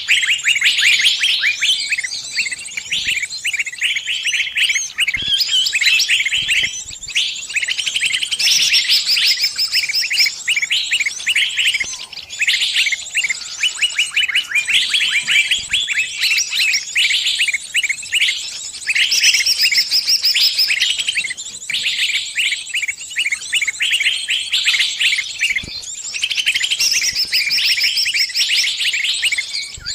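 A bird giving rapid, nearly continuous chirping distress calls, with a few short pauses: the cries of a trapped bird calling to its flock for help.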